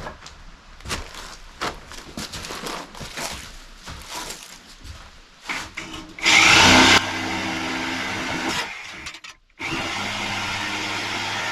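Clicks and knocks of tools and metal parts being handled, then a power tool starts about six seconds in with a very loud first second and keeps running steadily, cutting out briefly near the end before running again.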